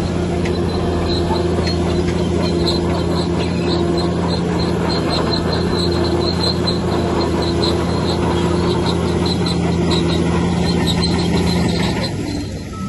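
Bulldozer's diesel engine running steadily, with a high squeak repeating several times a second over it. The engine note dips briefly near the end.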